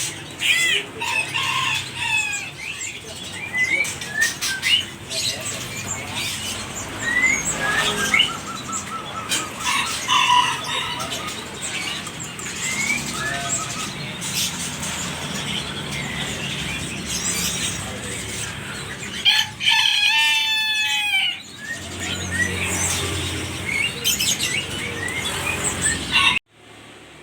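Asian pied starling (jalak suren) chicks chirping and calling over one another, with many short sharp clicks and rustles among the calls. A longer warbling call stands out about two-thirds of the way through. The sound cuts off suddenly near the end.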